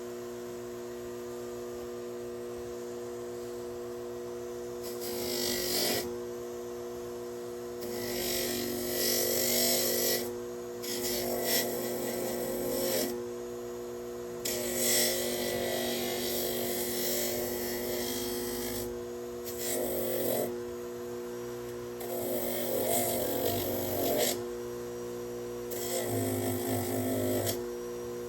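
Small electric power tool running steadily, with repeated bursts of rough abrasive noise each lasting one to four seconds as a worn old forging hammer is pressed against it to clean it up.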